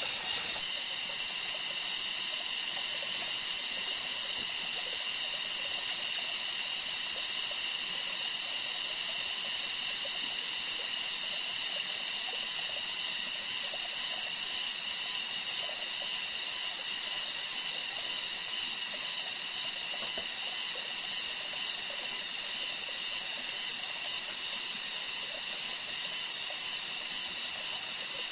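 Chorus of insects: a steady high buzz that begins to pulse in a regular rhythm about halfway through.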